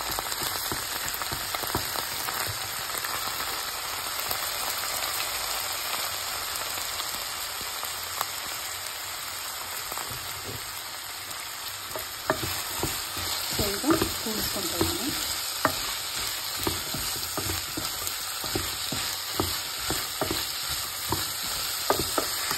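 Diced vegetables and ginger-garlic paste sizzling steadily in hot oil in a nonstick pan while being stirred with a wooden spatula. From about halfway through, the spatula scrapes and knocks against the pan more often.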